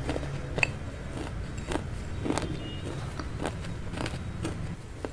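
A person chewing a mouthful of vegetable chow mein noodles: short mouth clicks about twice a second.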